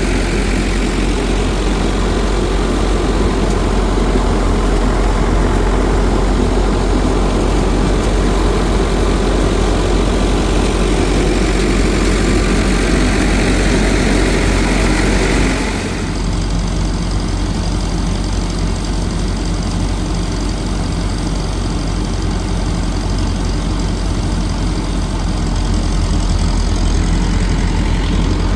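A motor engine running steadily, a deep hum with a rougher upper layer that drops away suddenly about 16 seconds in, leaving the low hum going on.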